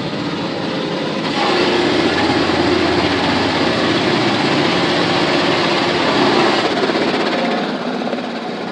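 Automatic car wash running over the car, heard from inside the cabin: a steady rush of spraying water and machinery noise with a low hum. It grows louder about a second in and eases off near the end.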